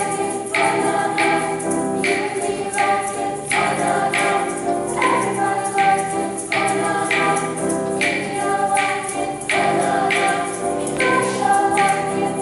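Junior high school choir singing, moving from one held chord to the next every half second or so.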